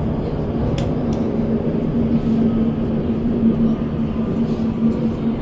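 Metro train running, heard from inside the car: a CSR Nanjing Puzhen B-type car with Hyundai Rotem traction motors. A steady motor tone holds one pitch over the rumble of the running gear, with a couple of short clicks about a second in.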